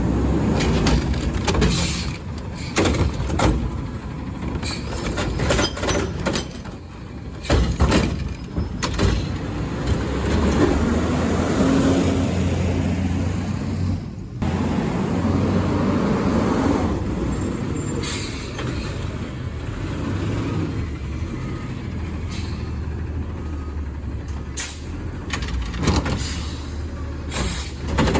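Garbage truck's diesel engine running with a steady low drone, with repeated metal clanks and knocks, and a long hiss through the middle that briefly cuts out partway.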